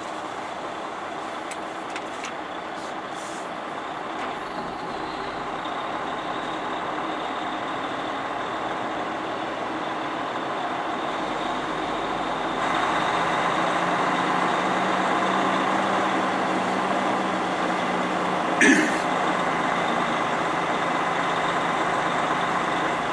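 Semi-truck's diesel engine running as the rig creeps along, growing louder about halfway through. A brief, loud burst of air hiss comes near the end.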